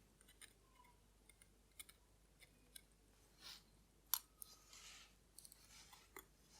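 Faint, scattered small metallic clicks and taps of watchmaker's tools handling a watch movement being taken apart, with one sharper click about four seconds in and a couple of brief soft hissing swells.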